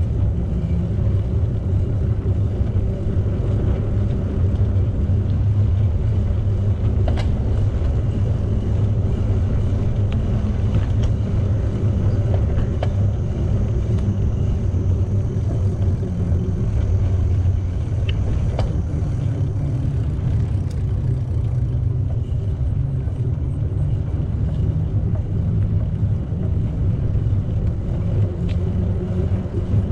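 Steady low wind rumble on the microphone of a moving bicycle, with a few faint clicks from the bike.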